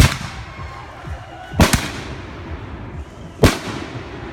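Fireworks going off: three sharp, loud bangs about a second and a half to two seconds apart, with low rumbling between them.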